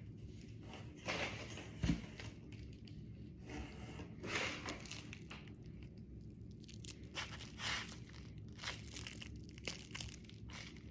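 Plant packaging being unwrapped by hand: irregular crinkling, rustling and tearing of wrapping material, with a sharp tap about two seconds in.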